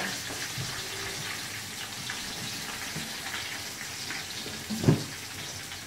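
Tilapia frying in hot oil in a frying pan, a steady sizzle, with one brief louder sound about five seconds in.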